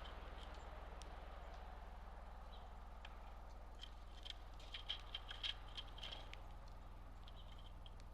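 Birds at a seed feeder pecking and cracking seed: light, irregular taps and clicks, most thickly in a cluster about five seconds in, over a faint low hum.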